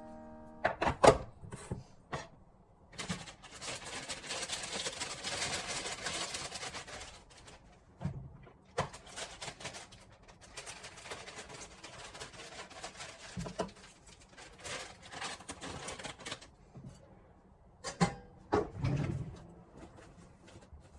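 Food-prep handling at a kitchen counter: a few knocks and clicks of utensils or containers, with two long stretches of rustling or scraping.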